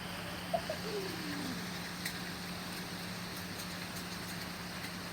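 Steady hiss of hail and rain falling in a heavy hailstorm, with a few sharp ticks of hailstones striking hard surfaces.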